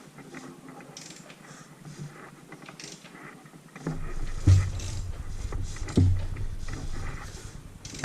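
Renault F4R engine being turned over by hand with a wrench and extension on the crankshaft pulley bolt: scattered tool clicks and knocks, then from about halfway a low rumble with two heavy thumps about a second and a half apart as the crank is heaved round against compression.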